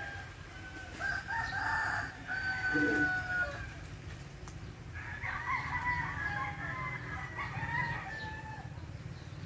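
A rooster crowing twice in long drawn-out calls, over a steady low rumble of wind on the microphone.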